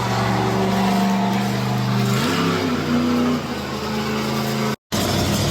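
Monster truck engine running hard with a steady pitched drone, rising in pitch about two seconds in as it revs up. The sound drops out for an instant near the end, then comes back rougher.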